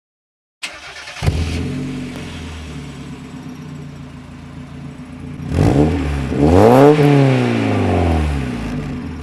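Mazda MX-5 NA's 90 hp 1.6-litre four-cylinder, on its stock exhaust, starting up about a second in and settling into a steady idle. Then a short throttle blip and a longer rev that climbs and falls back to idle.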